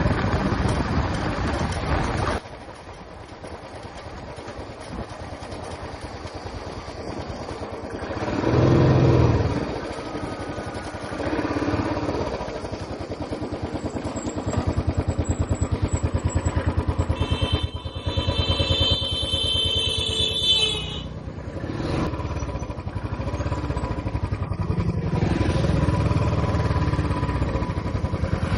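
Royal Enfield Classic 350's single-cylinder engine running on the road. It drops off sharply about two seconds in, then builds back up with a couple of swells. A horn sounds for about four seconds around two-thirds of the way through.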